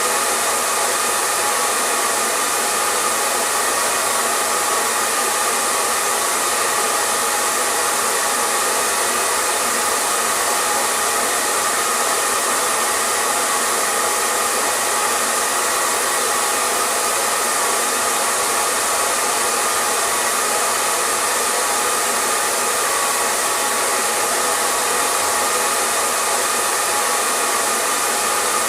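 Electric hair dryer running continuously at a steady speed: an even, unchanging whoosh of blown air and motor, with a faint steady hum in it.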